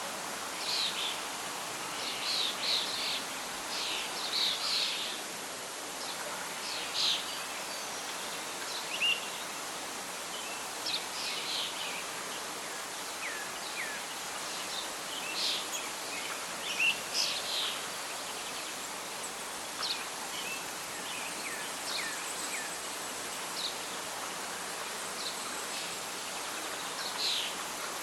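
Songbirds chirping and calling in short, scattered phrases over a steady rustle of wind in leaves.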